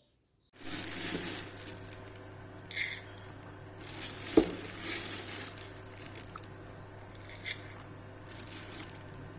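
Light clinks and handling noises of tea things and dishes, a few short knocks spread through, the sharpest about four and a half seconds in, over a steady low hum and hiss.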